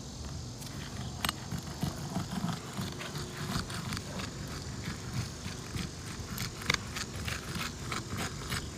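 Roofing snake being worked under asphalt shingles to lift them: irregular scraping and clicking, with a sharper crack about seven seconds in.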